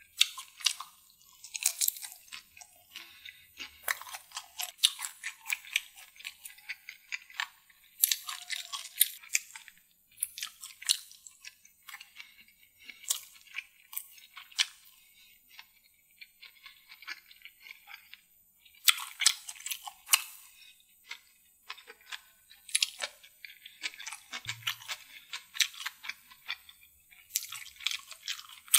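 Close-miked eating of deviled prawns and sausage: crunching and wet chewing in repeated bursts of crisp crackles.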